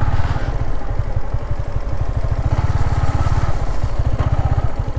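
Yamaha MT-15's single-cylinder engine running at steady low revs, a fast even pulse.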